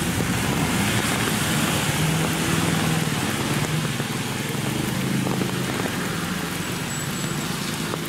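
Steady rain falling on a wet road, with a passing vehicle's engine humming underneath, strongest through the middle and fading near the end.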